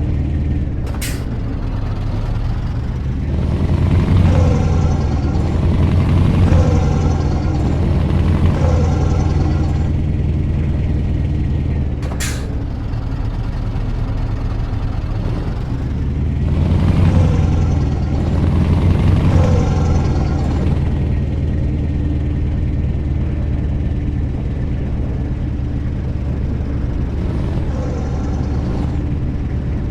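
Scania V8 truck engine running under way, its pitch rising and falling several times as it pulls through the revs. Two brief sharp hisses cut through, about a second in and near the middle.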